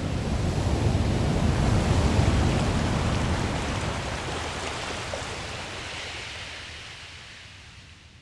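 Sea waves rushing as a wash of noise. It swells over the first couple of seconds, fades away steadily, then cuts off just before the end.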